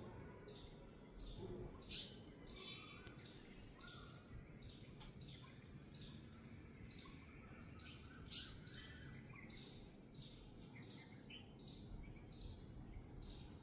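Birds chirping, quiet, in short high calls repeated about two to three times a second, with a louder call about two seconds in and another about eight seconds in.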